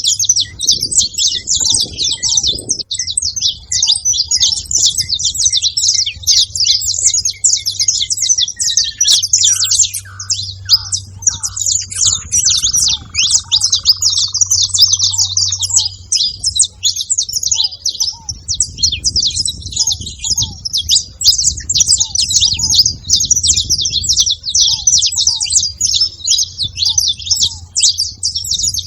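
A flock of saffron finches chirping continuously, many high calls overlapping. Around the middle a slower run of lower notes steps downward.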